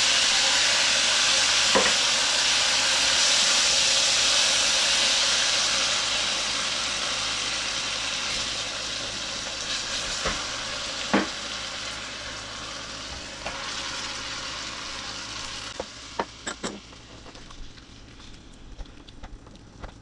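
Canned tomatoes sizzling loudly in hot olive oil in a stainless steel pan, the sizzle dying down steadily as the cold tomatoes cool the pan, with a spatula stirring through them. A few sharp knocks of the spatula against the pan.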